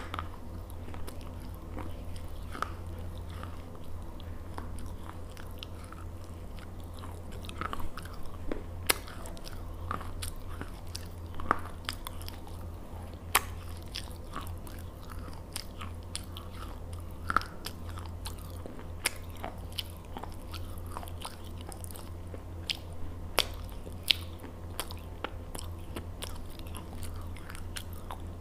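A person chewing something crunchy close to the microphone: slow mouth sounds broken by irregular sharp crunches, over a steady low hum.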